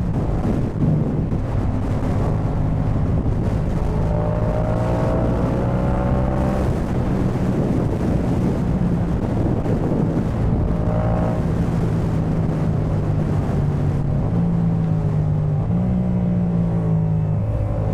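2018 Yamaha MT-07's 689 cc parallel-twin engine running through a Jeskap K4 full exhaust while riding. The engine note holds fairly steady, rises slightly a couple of times and drops near the end, with wind noise on the microphone.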